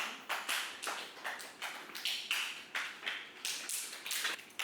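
Dancers' feet tapping and shuffling on a studio floor in a quick, even rhythm, about four steps a second, as they mark through the choreography.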